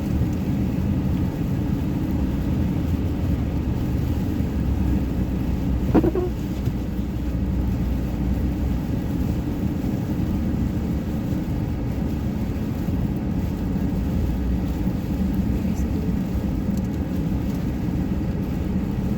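Steady low road and engine rumble heard from inside a moving car on a snowy road. About six seconds in there is one short, sharp sound that quickly falls in pitch.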